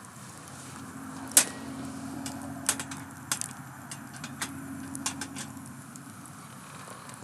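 Wood campfire crackling, with sharp pops at irregular intervals over a low steady rush.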